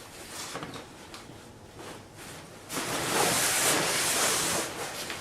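A fabric backpack being handled: soft rustling, then a loud sliding rasp lasting about two seconds as the bag's straps or fabric are worked.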